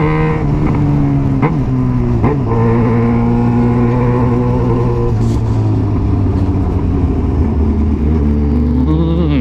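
Yamaha XJ6's 600 cc inline-four engine running through a Jeskap aftermarket exhaust. The engine note holds fairly level with two short dips early on, drops in pitch around the middle, and climbs again near the end.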